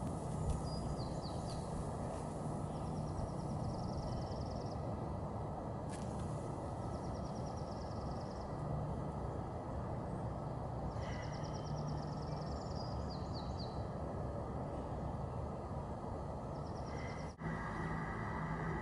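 Steady outdoor background rumble, with a bird repeatedly singing short, high trills a few seconds apart. The sound drops out briefly near the end.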